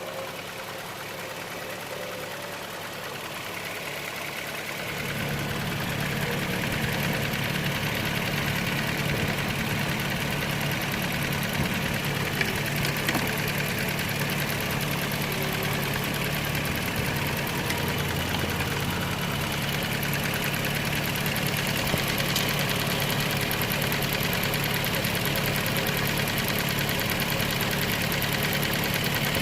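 Toyota Land Cruiser's 1GR 4.0-litre V6 idling, louder and fuller from about five seconds in. The left-side exhaust manifold leaks, and the epoxy paste over the leak does not hold up to the heat.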